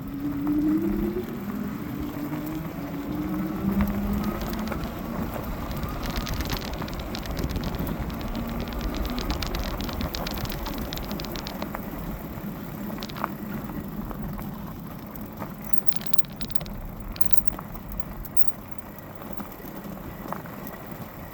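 Electric motors of a dual-motor fat-tyre e-bike whining and rising in pitch as it accelerates over the first few seconds. This sits over a steady hiss of tyres on wet road and wind rumble on the microphone. Scattered ticks and crackles come between about six and twelve seconds in.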